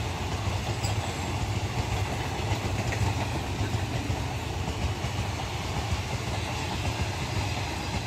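Passenger coaches of an Indian Railways mail express passing close by at speed: a steady, even rumble of wheels on the rails.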